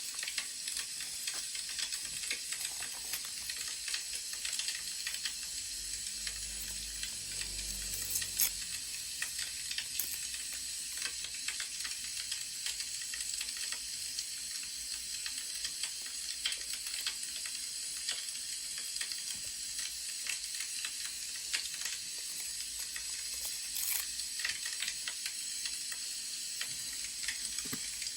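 Wood fire burning with a steady hiss and constant small crackles, broken by an occasional sharper pop.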